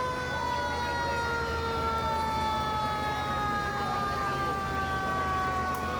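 Emergency-vehicle siren held as one long wail that slowly falls in pitch, over the steady low hum of an engine.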